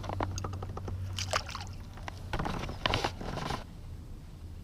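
Handling noises in a kayak: scattered light clicks and knocks, with two brief swishy, splashy bursts about a second in and about three seconds in, over a steady low hum.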